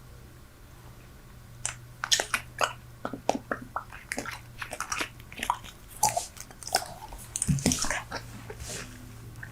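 Super Bubble bubble gum being chewed close to the microphone: wet, irregular smacks and clicks of the mouth, starting about two seconds in and coming thick and fast after that.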